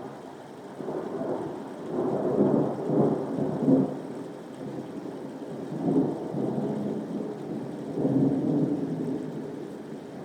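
Rolling thunder over soft rain. The rumble swells about a second in, comes in several surges, and fades near the end, with the steady hiss of rain beneath it.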